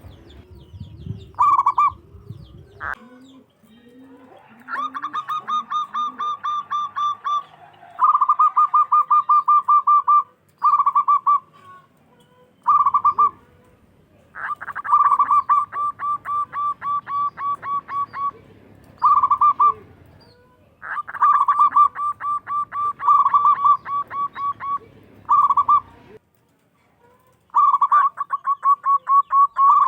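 Zebra dove (perkutut) song: bouts of rapid staccato cooing notes, about six a second, each bout a few seconds long with short pauses between. A few short, lower coos come about three seconds in.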